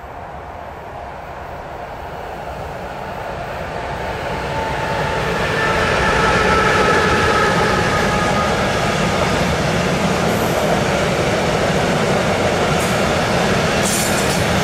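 Intermodal freight train of semi-trailers on pocket wagons, hauled by an electric locomotive, approaching and passing close by. The rumble grows louder until about six seconds in, then runs on as the steady rumble of the wagons' wheels on the rails, with a few faint high held tones in the middle.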